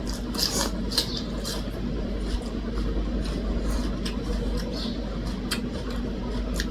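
Eating sounds at a meal: scattered short clicks of chewing and utensils over a steady low background hum.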